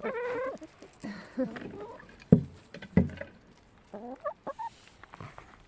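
Hens clucking and calling in several short bursts, the longest at the start, with two sharp thumps about two and a half and three seconds in.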